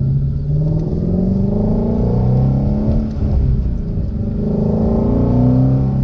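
2016 Ford Shelby GT350's 5.2-litre flat-plane-crank V8 under hard acceleration: the engine note climbs in pitch, falls back about three seconds in, then climbs again before easing off near the end.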